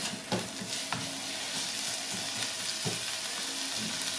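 Chopped mushrooms sizzling as they fry in a hot non-stick wok, with a few light taps of the spatula as they are stirred.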